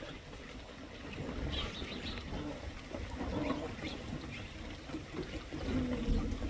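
Short bird chirps, several in a row, over a steady low rumble.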